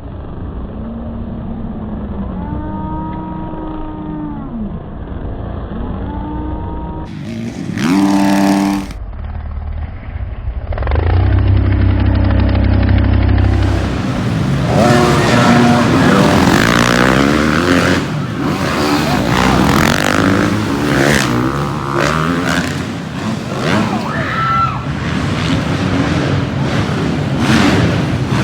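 Motocross dirt bike engines revving, their pitch rising and falling over and over, across several short clips. About halfway through, the sound turns louder and denser.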